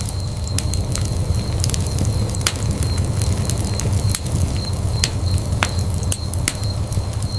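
Wood fire burning in a fireplace: a steady low rumble of the flames with sharp, irregular pops and crackles from the burning logs.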